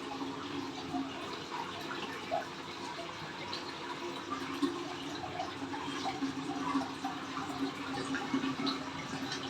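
Water running steadily into an IFB front-loading washing machine through its inlet, with a steady hum beneath the flow. The machine keeps filling non-stop, a fault the repairer puts down to the pressure sensor.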